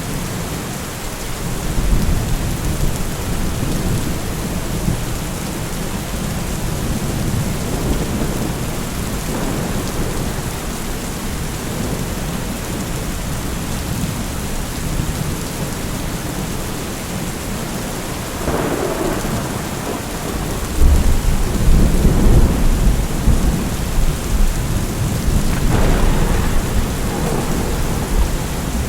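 Steady heavy rain with rolling thunder; a deep rumble swells a little after two-thirds of the way through, and shorter rumbles come just before and near the end.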